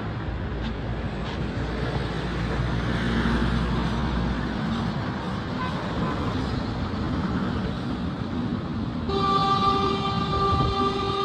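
Street traffic: vehicle engines running and passing, with a low engine hum through the first few seconds. About nine seconds in, a vehicle horn sounds one long, steady blast.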